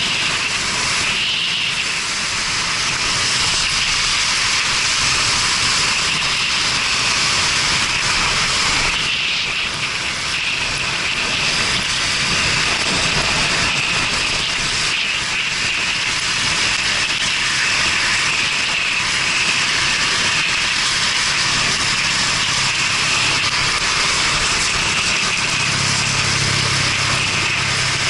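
Steady wind rush and wet-road hiss on a motorcycle-mounted action camera, over the low hum of a Yamaha Fazer 250's single-cylinder engine, riding in the rain. The engine note grows stronger near the end.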